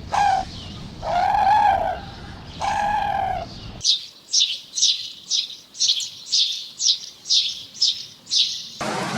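Three drawn-out, arched animal calls, the last two about a second each, then an abrupt change about four seconds in to a small bird chirping: about ten high, short chirps at a steady pace of two or three a second.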